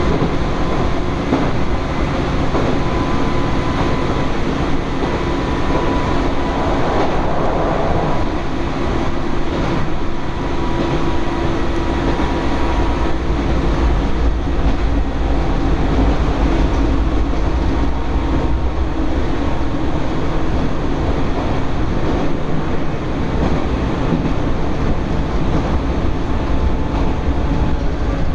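Electric commuter train running between stations, heard from inside the carriage: a steady rumble of wheels on rail with faint, even motor tones.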